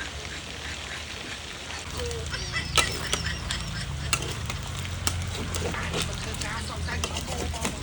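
Chicken legs frying in a pan with a steady sizzle, and sharp clicks of a utensil against the pan, the loudest about three seconds in.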